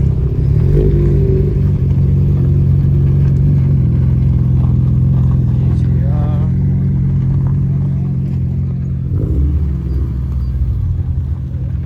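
A car engine running close by with a steady low note, which drops lower about nine seconds in.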